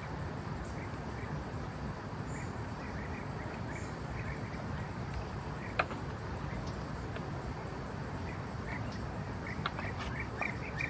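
Forest ambience: a steady background hiss with short, repeated bird chirps throughout and a few sharp clicks or snaps, one about six seconds in and several near the end.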